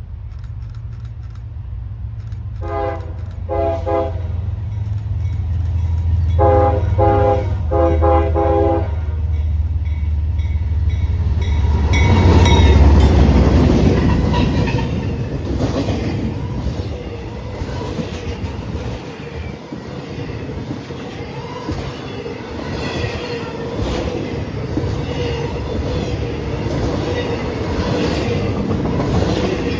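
Intermodal freight train approaching and passing: the diesel locomotive's multi-chime horn sounds two short blasts, then three more a few seconds later, over a building engine rumble. The lead locomotive goes by loudest about halfway through, followed by the intermodal cars rolling past with wheel clatter and a thin wheel squeal.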